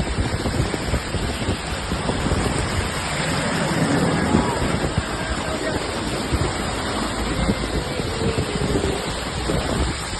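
Steady noise of heavy monsoon rain and running water, with wind buffeting the microphone.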